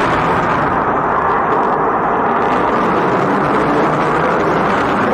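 Fighter jet engines roaring in flight, a loud, steady, noisy roar whose high hiss dies away during the first second.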